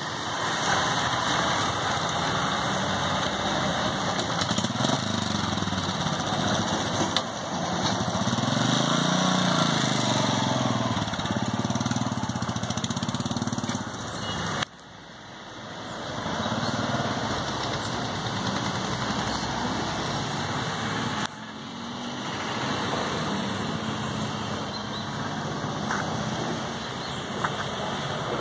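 Royal Enfield Bullet motorcycle's single-cylinder engine running and being revved as the bike pulls away. The sound drops suddenly about halfway through and again later, then runs on more quietly.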